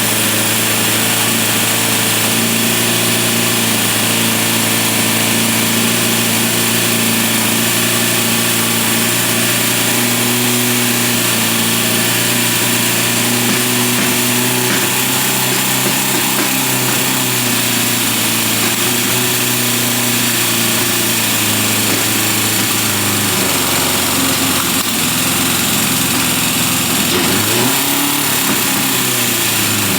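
Honda CB550K air-cooled inline four-cylinder engine running at idle while warming up on its first run after restoration and having its ignition timing set. The idle speed drops a little about three quarters of the way through, then dips briefly and picks up again near the end.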